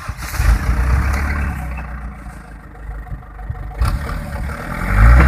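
Truck engine running at a low idle, then revving up near the end, rising in pitch and getting louder.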